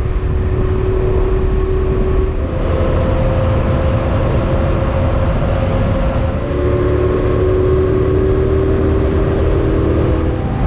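Motorcycle engine running under way, over heavy wind rumble. The engine note steps up about two and a half seconds in, drops back about six and a half seconds in, then climbs slowly.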